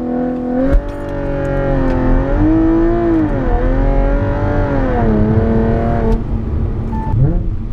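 Audi A7's supercharged 3.0 V6, breathing through an aftermarket Armytrix stainless valved exhaust, pulling under throttle. Its pitch climbs, dips and climbs again through gear changes, eases off about six seconds in, and starts rising again near the end.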